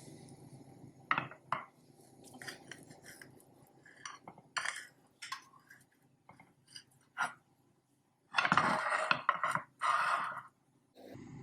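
Dishes and cutlery clinking and knocking in a series of short, irregular sounds, with two louder, longer noisy stretches of about a second each near the end.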